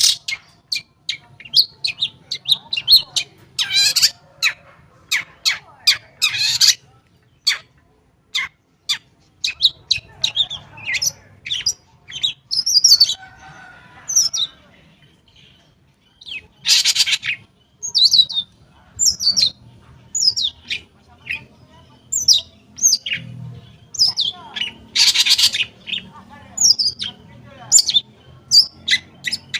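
Long-tailed shrike (cendet) singing a fast, varied song of sharp chirps and whistles. The song is broken several times by loud, harsh chattering bursts.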